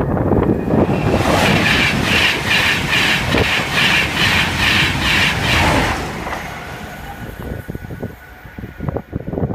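Electric express passenger train passing at speed, a loud rush with the wheels clattering in an even rhythm about two and a half times a second. The sound fades away over the last few seconds as the train recedes.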